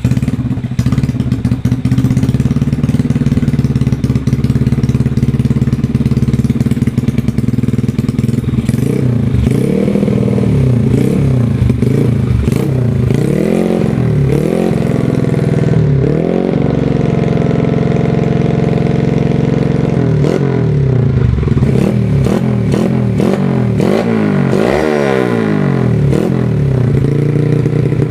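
Yamaha Jupiter Z's single-cylinder four-stroke engine running loud through an aftermarket open exhaust. It idles steadily, then is revved in repeated short blips from about nine seconds in and again in the last third.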